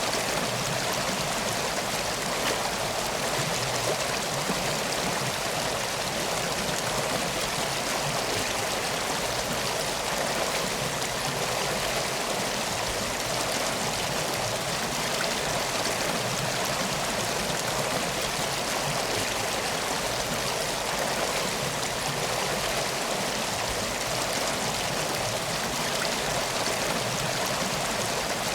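Steady flowing water, a constant even rush like a stream, with no breaks or changes.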